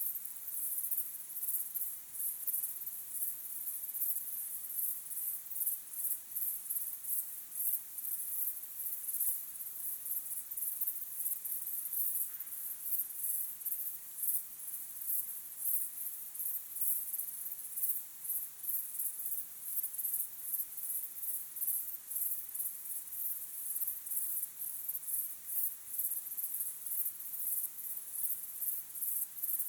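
Crickets chirping: a steady, high-pitched chorus of evenly repeating chirps.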